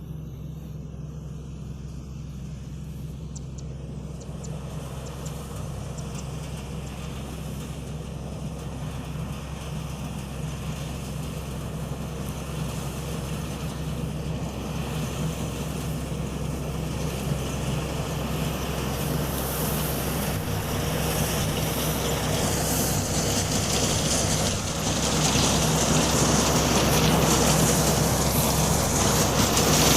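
Combine harvester working, its 6M61 diesel engine running steadily under the rushing noise of the machine, growing steadily louder throughout.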